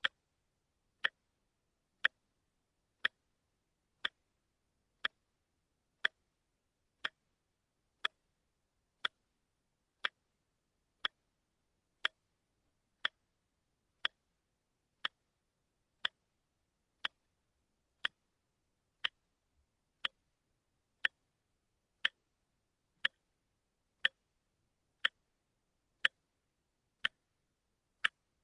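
Watch ticking once a second: short, sharp, evenly spaced clicks with silence between, the one-step-a-second beat of a quartz watch movement.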